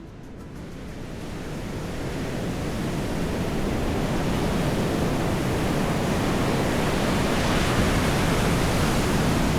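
A steady outdoor rushing noise that fades in over the first three seconds, then holds evenly.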